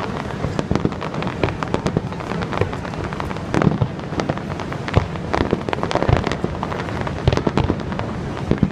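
Aerial fireworks shells bursting: many irregular bangs and crackles in quick succession, some louder than others, over a continuous rumbling background.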